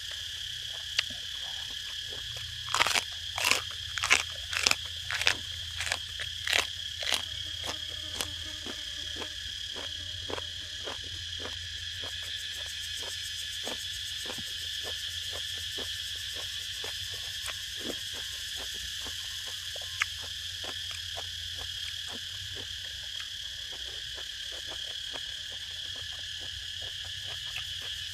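Close-up crunchy chewing of a mouthful, with about ten loud crunches a few seconds in, then steady softer chewing at about two a second. Behind it runs a steady high chorus of insects.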